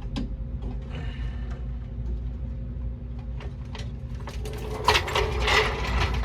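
Floor jack being lowered and pulled out from under the car: scattered clicks and clanks of the jack's metal parts, then a louder metallic rattle of the jack being dragged clear about five seconds in.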